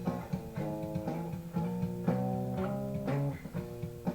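Guitar music: a string-instrument passage of plucked and strummed notes between sung lines of a song.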